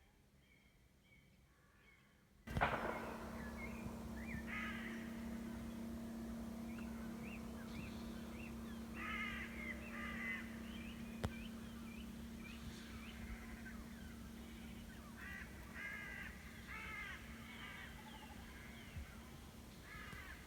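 Birds calling over and over, with clusters of short, harsh calls, over a steady low hum. The sound starts abruptly about two and a half seconds in, after near quiet with faint chirps.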